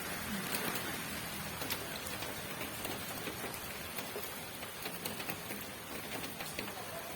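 Steady rain falling: a constant hiss with scattered sharp taps of single drops.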